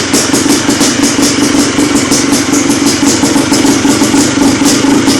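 Yamaha Blaster's 195cc air-cooled two-stroke single-cylinder engine idling steadily, shortly after a cold start, with a fast, even pulsing exhaust beat.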